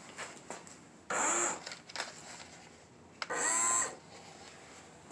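A small electric motor whirring in two short bursts about two seconds apart, amid light handling clicks.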